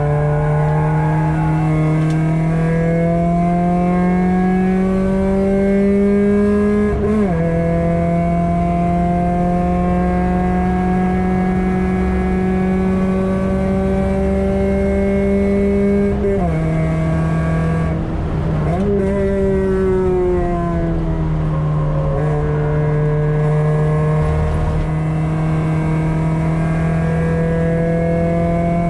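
Ford 1.7 Puma four-cylinder engine, through a decat Milltek exhaust, heard from inside the cabin of a Mk5 Fiesta under hard acceleration on track. The engine note climbs slowly as the revs build and drops sharply at gear changes about 7 seconds in, then again around the middle and about two-thirds of the way through.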